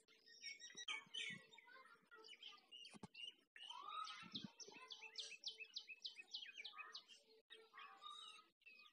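Faint chorus of small birds chirping and calling, with a quick run of repeated notes, about five a second, near the middle.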